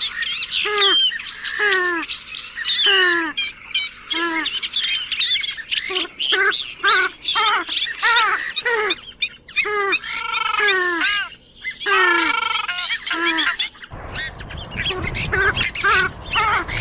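Swamphen calling: a rapid series of harsh, downward-sliding notes, several a second, some stretched into longer wavering calls. About 14 seconds in, a low rumbling noise joins the calls.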